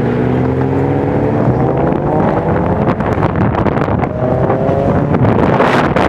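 Car engine accelerating hard, its pitch climbing for about three seconds, dropping off, then climbing again, with wind noise over the microphone.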